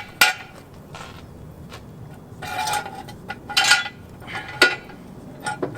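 Steel parts clanking together: two sharp knocks at the start, then several ringing metal clanks in the second half.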